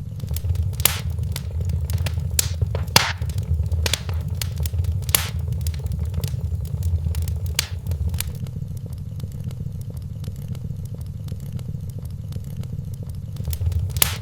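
Wood fire crackling in a fireplace: irregular sharp pops and snaps, a few seconds apart, over a steady low rumble.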